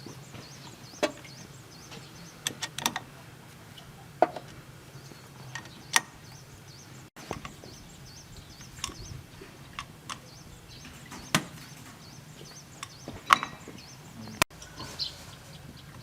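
Hand tools clinking and knocking on metal tractor engine parts: about a dozen sharp, irregular taps a second or more apart, over a faint steady hum.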